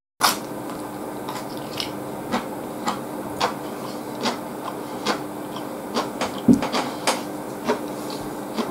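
A person chewing a mouthful of rice and pork cutlet close to the microphone: short wet mouth clicks and smacks at irregular intervals, with one louder thump past the middle, over a steady low hum.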